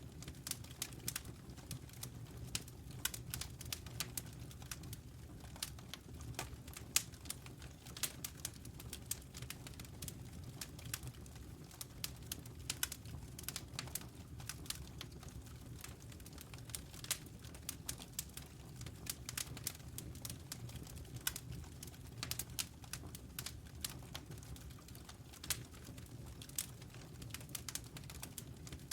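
Wood fire crackling, with many quick irregular pops over a steady low rumble.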